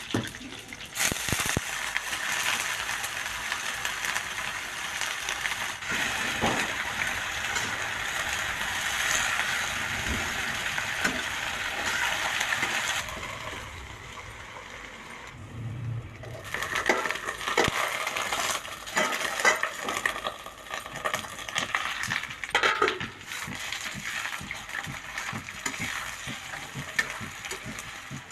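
Food sizzling in an iron kadhai for about half the time, then a quieter stretch followed by a metal spoon clinking and scraping against the pan.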